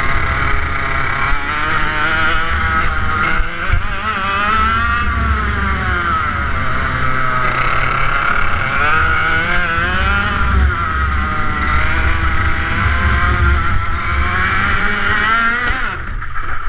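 Water-cooled TM K11B 100cc two-stroke kart engine at high revs, its pitch rising and falling again and again as the throttle is opened and lifted through the corners. The sound drops away suddenly near the end.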